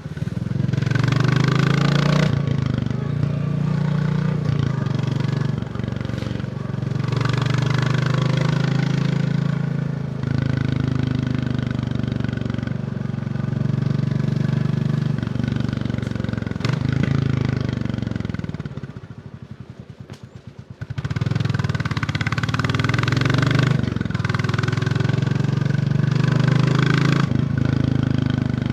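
Royal Enfield Bullet 350's single-cylinder engine heard from the rider's seat, pulling up through the gears: the pitch rises again and again and drops back at each shift. About two-thirds in, the throttle closes and the engine falls back to a low, slow beat for a couple of seconds, then picks up again.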